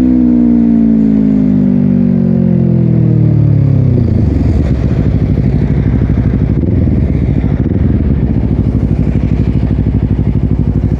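2022 Honda CBR250RR parallel-twin engine with a Yoshimura exhaust. Its revs fall smoothly for about four seconds, then it settles into a steady, pulsing idle.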